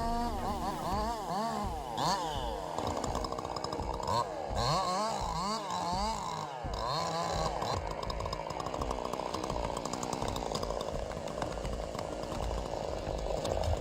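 Chainsaw engine revving up and down over and over, then running more evenly at high speed for the second half.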